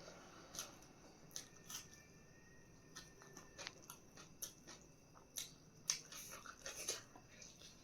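Faint eating sounds close to the microphone: chewing with irregular short crunches and wet mouth clicks, the sharpest about six seconds in.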